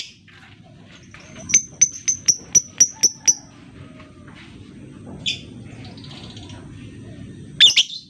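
Lovebird calling: a quick run of about eight sharp, high chirps at roughly four a second, then a single short call and, near the end, one louder harsh call.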